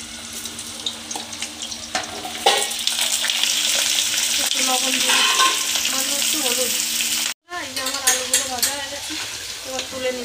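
Potato pieces frying in hot oil in a steel kadai, a loud steady sizzle, with a metal spatula stirring and scraping against the pan. The sizzle swells about two and a half seconds in and cuts out for a moment near the end.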